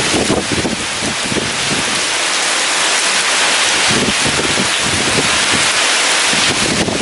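Heavy rain pouring steadily in a storm, with strong wind gusting through it in uneven swells.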